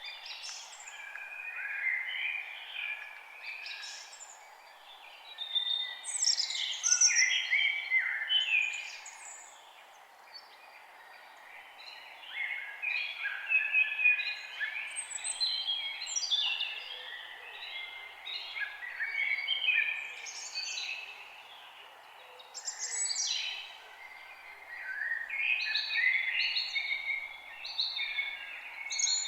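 Several birds singing at once: a steady chorus of overlapping chirps, trills and rapid phrases, with brief lulls, over a faint steady hiss.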